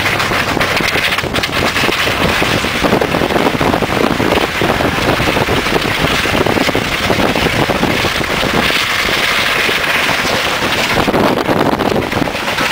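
Lifted Chevrolet Silverado 4x4 pickup driving, its engine running under wind buffeting the microphone, with a dense, constant rattling clatter throughout.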